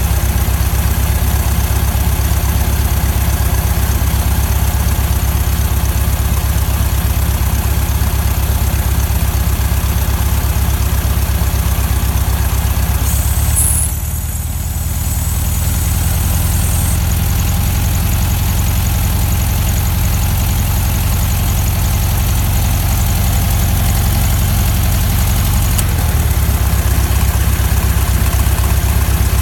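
1969 Volkswagen Beetle Cabriolet's air-cooled flat-four engine idling steadily, dipping briefly in level about halfway through.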